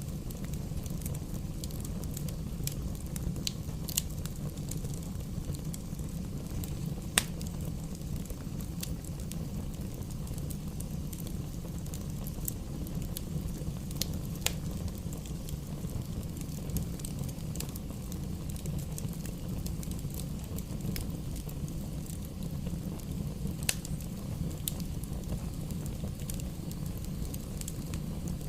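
Fire burning in a fireplace: a steady low rumble with scattered sharp crackles and pops, the loudest about seven seconds in.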